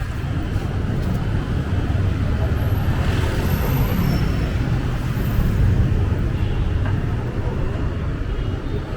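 Steady motor-traffic noise of a busy city street, engines rumbling and passing without a break.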